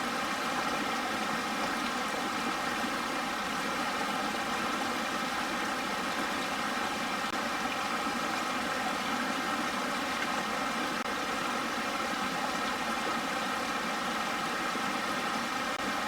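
Steady mechanical hum made of several held tones, running evenly without change.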